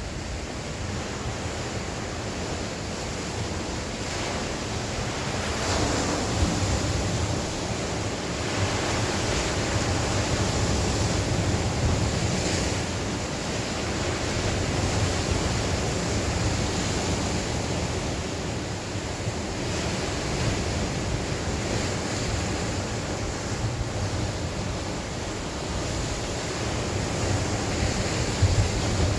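Sea waves breaking and washing on the shore in a strong wind, the surf rising and falling in swells every few seconds, with wind buffeting the microphone as a low rumble.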